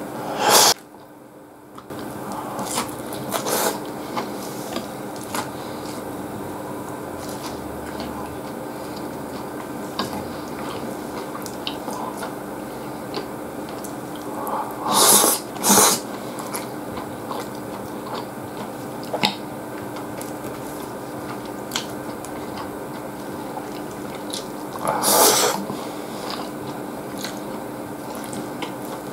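Close-up eating sounds of a man chewing mouthfuls of katsudon (rice, egg and pork cutlet): soft chewing and small mouth clicks, with a few louder, noisy mouth sounds about a second in, twice in quick succession around the middle, and once more near the end.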